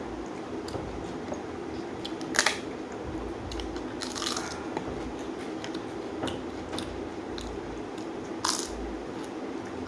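A person eating: sharp crunching bites about two and a half seconds in and again near the end, a longer crunchy patch around four seconds, and small clicks between, over a steady hum.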